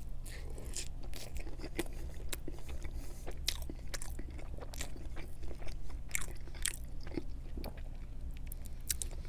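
Close-miked chewing of a bite of pepperoni pizza: irregular wet mouth clicks and smacks with some crunching of the crust.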